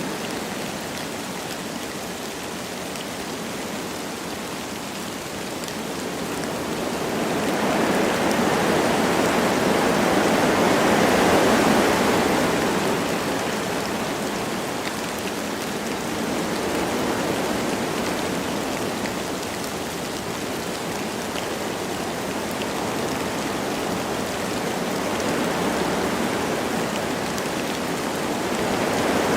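Wind blowing through forest trees with light rain falling. It rises and falls in gusts, swelling strongest about ten seconds in and building again near the end.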